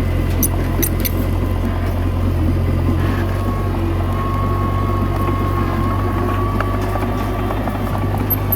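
Komatsu D21A bulldozer's diesel engine running steadily, with a thin high whine and a few light clicks in the first second.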